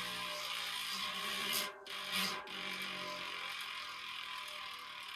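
DT Swiss 240 hub's star-ratchet freehub buzzing as a fast continuous run of clicks while the freehub is turned backwards. It breaks off briefly a little under two seconds in, gives a short louder burst, then carries on, easing slightly.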